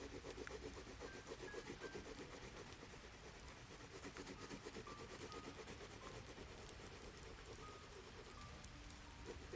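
Faint, fast scratching of a pen drawing on paper over a soft, steady hiss of rain.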